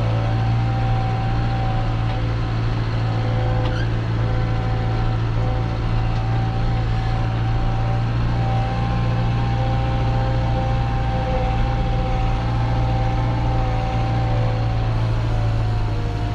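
JCB 3CX Compact backhoe's diesel engine running steadily under way, with a steady whine above the engine note.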